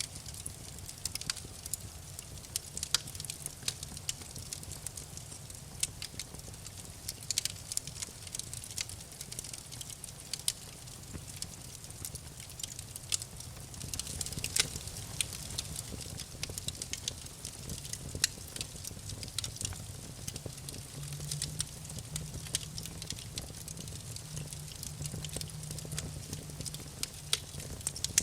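Wood fire crackling in a fireplace: frequent sharp pops and snaps over a low, steady rumble.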